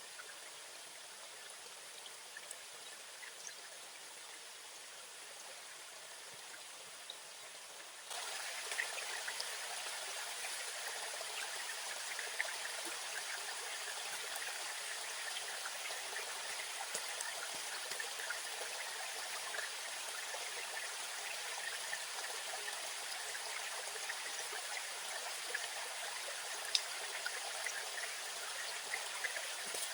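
Steady rushing and trickling of a flowing stream, which jumps abruptly louder about eight seconds in and then holds steady.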